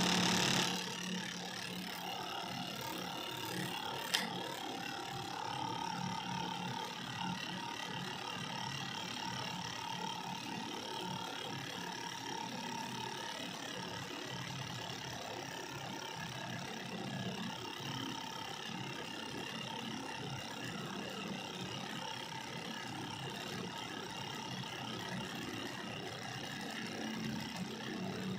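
Small discarded DC motor, rewound with 23 SWG enamelled copper wire, running steadily on 9 volts with a continuous whir. There is a single sharp click about four seconds in.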